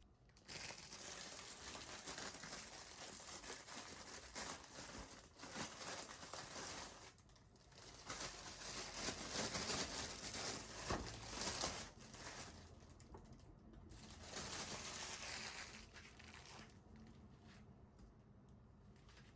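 Crinkling and rustling, as of something being crumpled or handled, in long stretches with short pauses about seven and twelve seconds in, fading near the end.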